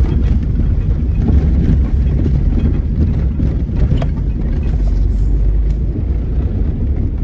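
A vehicle driving off-road over rough ground, its engine rumbling steadily while the body knocks and rattles over the bumps.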